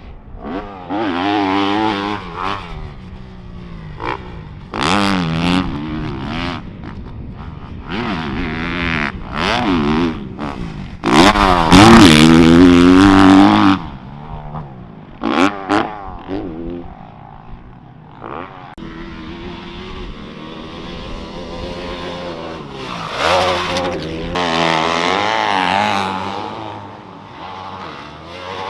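Dirt bike engines revving hard on a motocross track, the pitch climbing and dropping again and again as the riders open and close the throttle. The bikes are loudest about eleven to fourteen seconds in.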